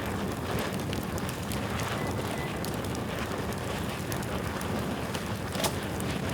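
Bamboo bonfire burning with a steady rush of flame and scattered crackles, one sharper crack near the end.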